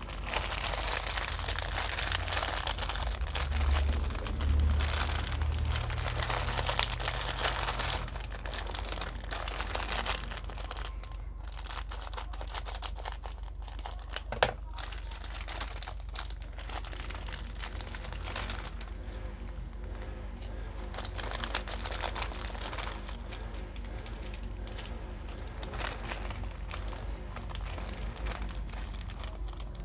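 Continuous crinkling and crackling, louder in the first eight seconds, with one sharp click about fourteen seconds in.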